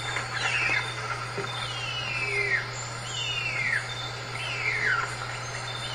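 Male bird-of-paradise calling: a high, drawn-out call that slides steadily downward, repeated about once a second, over a steady low hum.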